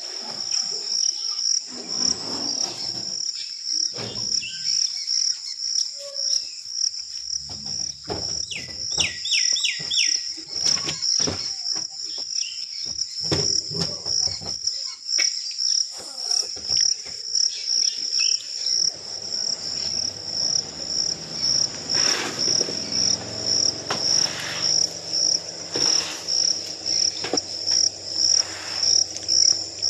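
Insect chirping in a steady, high, pulsing trill. About nine seconds in, a quick run of four short high calls cuts through it, and from about two-thirds of the way in a low hum sits underneath.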